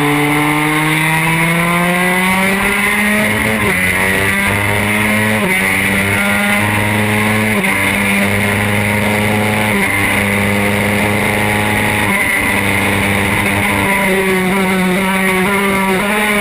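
Yamaha R3 parallel-twin motorcycle engine under way. It rises in pitch as it accelerates over the first few seconds, then cruises at a steady pitch with brief dips every couple of seconds as the throttle is eased and reopened.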